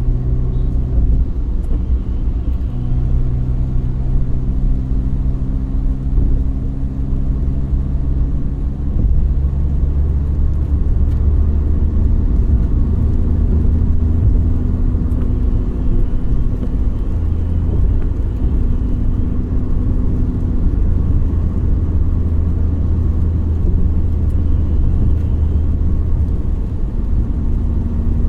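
Car on the move: a steady low engine hum with road rumble. The hum changes pitch about ten seconds in.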